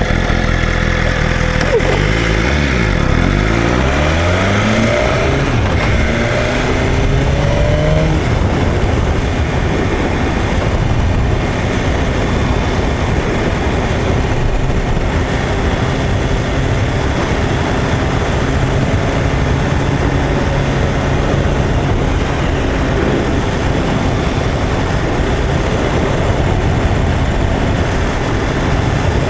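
2021 BMW S1000RR's inline-four engine running under way with heavy wind and road noise. The engine note falls and rises in pitch over the first eight seconds, then settles into a steady rush.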